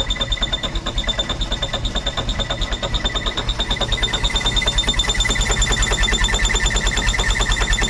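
Starter cranking the John Deere 323D skid steer's diesel engine in a fast, even rhythm without it catching: the battery is too weak to start it.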